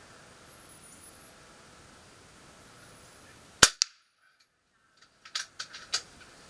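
A single shot from a Kral Puncher Empire XS .22 PCP air rifle, a sharp crack about halfway through, with a fainter second crack a fifth of a second later. Several quick clicks follow about a second and a half after the shot.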